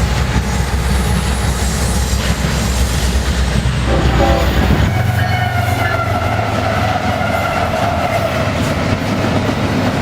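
Model train running with a low rumble, then from about five seconds a long, steady, slightly falling pitched tone.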